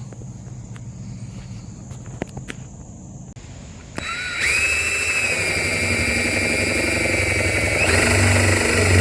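Electric drill starting about four seconds in and running steadily with a high whine, boring a one-inch hole through the wall for a hose bib; the whine steps up slightly near the end.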